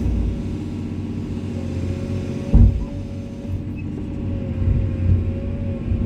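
Komatsu excavator's diesel engine running steadily under a thin, steady whine. There is one heavy thud about two and a half seconds in.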